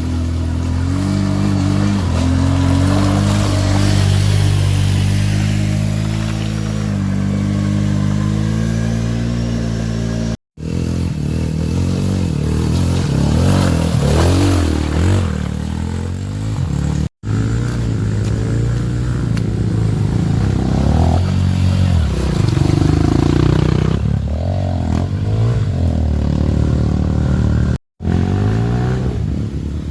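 Off-road trail motorcycle engines revving, their pitch rising and falling as the throttle opens and closes. The sound breaks off abruptly three times for a split second.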